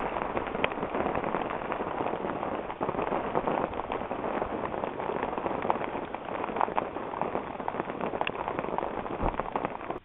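Heavy rain pouring down onto hard surfaces: a dense, steady crackle of drops with many sharp ticks through it.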